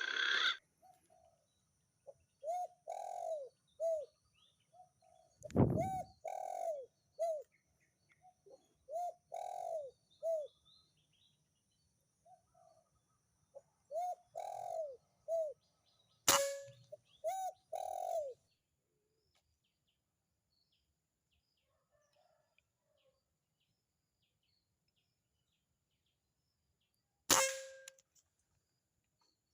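Spotted dove cooing in repeated short phrases of arched, mellow notes, which stop a little past halfway. Three sharp cracks cut in, the last two each with a brief ring.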